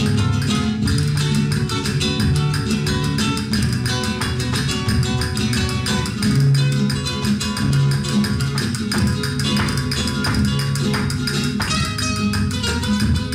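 Flamenco guitar playing, a continuous run of quick plucked and strummed notes.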